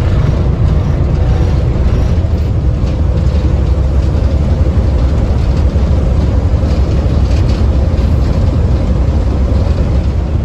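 L&PS Railway car 14 running along the track, a loud, steady low rumble of the moving railcar that holds without a break.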